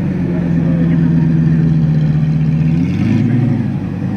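A car engine running steadily, its note shifting about three seconds in.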